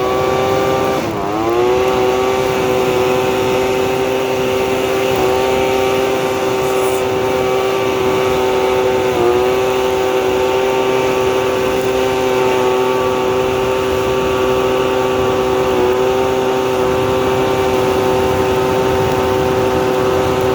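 Leaf blower engine running at high throttle, blasting air onto a bonfire's embers to fan them back into flame. The pitch holds steady except for short dips about a second in, near the middle and again later.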